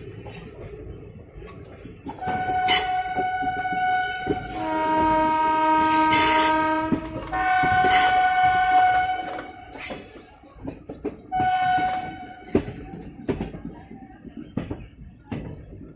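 Indian Railways WAP-4 electric locomotive's air horn sounding four held blasts, the second one lower and chord-like, over scattered clicks of wheels on rail joints.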